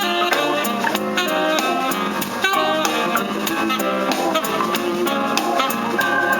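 Instrumental stretch of a pop song with a steady beat, played through an Audi TT's car audio on newly fitted Morel Maximo 6 speakers as a sound test after the noise repair; the system plays clean, without the noise it had before.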